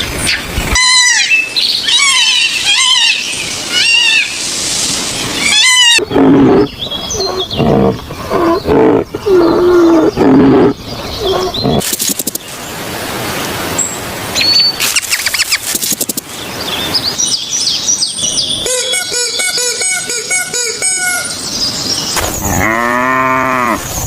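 A quick succession of different animal calls. Repeated high, falling chirps come in the first several seconds, and lower pitched calls follow. A rapid run of evenly pulsed calls comes later, and a strong, drawn-out call that bends in pitch begins near the end.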